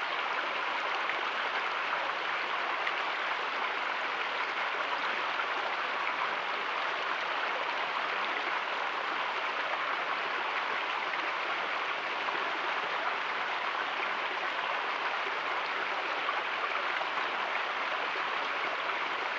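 Running water of a stream rushing steadily, an even hiss with no change.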